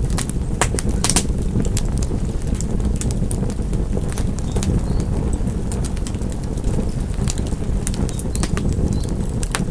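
Wood fire crackling: irregular sharp pops and snaps, several a second, over a steady low rush from the burning fire.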